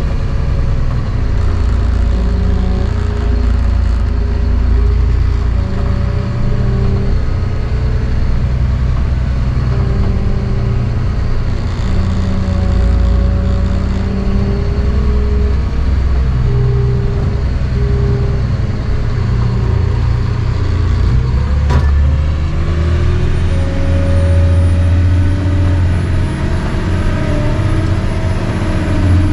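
Cat 725 articulated dump truck's diesel engine running under load as the truck is driven, with the engine note rising and falling. A click about three quarters of the way through, after which the engine note changes.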